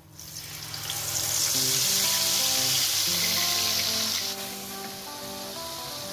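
Food sizzling as it fries in a hot pan. The sizzle builds over the first second, stays loud, then drops off about four seconds in. Background music plays underneath.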